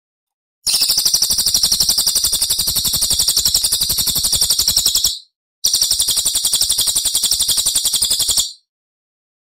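Recorded songbird giving a rapid, high-pitched trill of evenly repeated notes in two long bouts, the first about four and a half seconds and the second about three, with a short pause between.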